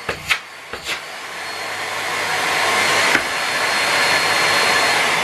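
A few clicks, then a Miele Complete C3 canister vacuum cleaner's motor spinning up to full speed and running steadily with a high whine, with a single click about three seconds in. The level starts to fall near the end as the motor begins to wind down.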